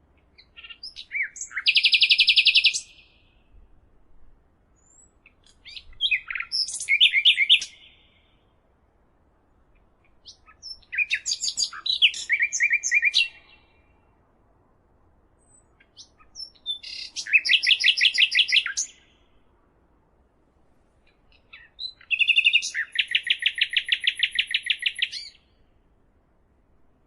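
A songbird singing five songs, roughly one every five seconds. Each song opens with a few quick varied notes and ends in a fast, high trill.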